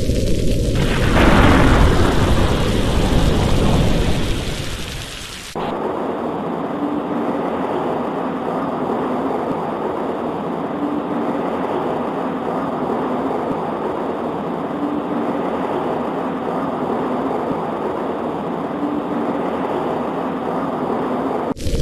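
A thunderclap about a second in, rumbling and dying away over about four seconds above heavy rain. The sound then switches abruptly to a steady hiss of rain on a window, and cuts abruptly again just before the end.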